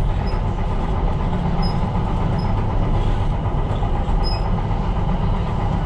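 Tyne & Wear Metrocar running along the track, heard from inside the train: a steady low rumble of wheels and running gear with a few faint high clicks.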